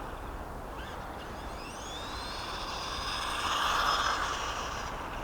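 Brushed electric motor of a Helion Animus 1/18 short course RC truck whining and rising in pitch several times as the truck speeds up. A rushing noise swells about four seconds in.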